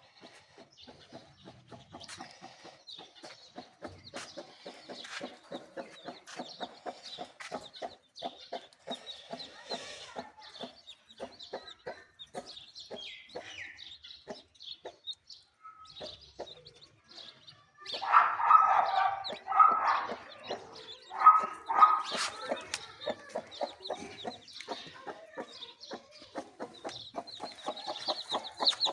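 Indian ringneck parrot chattering in rapid clicking, muttering notes. About eighteen seconds in come a few louder, sharper calls.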